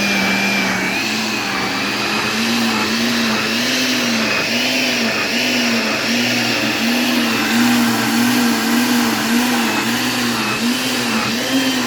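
Electric countertop blender running, blending diced carrots with water. Its motor pitch wobbles up and down about twice a second as the contents churn.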